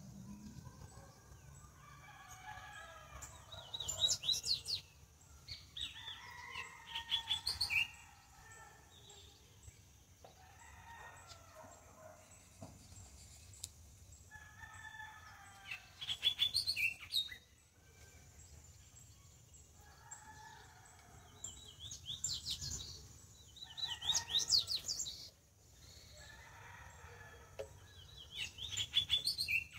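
Birds calling: every few seconds comes a short burst of rapid, high-pitched chirping notes, with softer, lower warbled calls in between.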